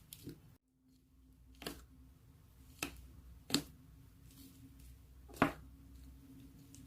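Slime being handled, giving four sharp separate clicks and pops, the loudest about five and a half seconds in, over a faint steady hum.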